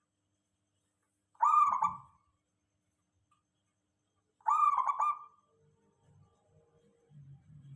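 Zebra dove (perkutut) cooing: two short calls about three seconds apart.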